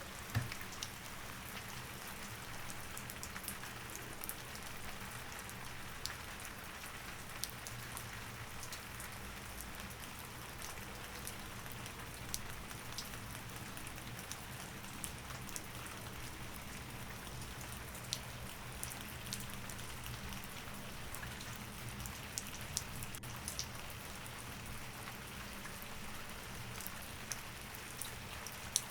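Steady rain falling, with many scattered sharp drips ticking on a surface, over a faint low steady hum.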